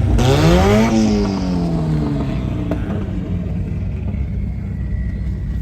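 Car engine revving once: its pitch climbs for about a second, then falls away slowly over the next two seconds. A steady low rumble of engines runs underneath.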